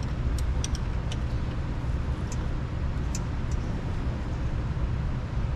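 Steady low background rumble, with a few light clicks in the first few seconds.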